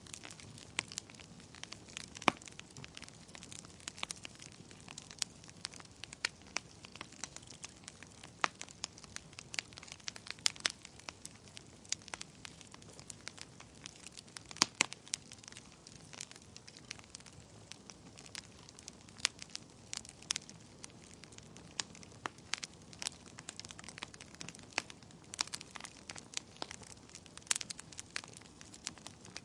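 Wood fire burning in a fireplace: irregular sharp crackles and pops over a soft steady hiss of the flames.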